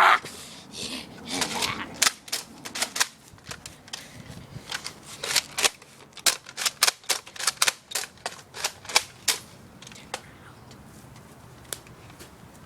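A toy gun fired over and over: a fast, irregular run of sharp cracks and clicks for about seven seconds, thinning to a few stray clicks near the end.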